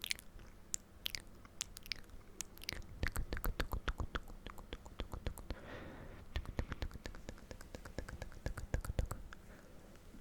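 Close-miked ASMR mouth sounds: many quick wet clicks and smacks, coming in dense runs partway in and again near the end.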